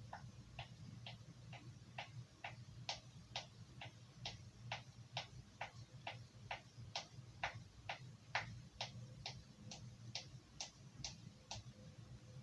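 A carving knife's blade stroked over a sharpener in a steady rhythm, about two strokes a second, each stroke a short scrape. There are around two dozen strokes, like the 20 to 30 per side the sharpener counts.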